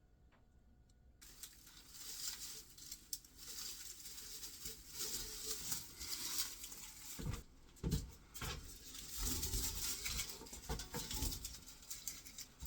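Dry, papery skins and stalks of cured garlic and onion bulbs rustling and crackling as they are handled, starting about a second in, with a couple of low thumps about seven seconds in.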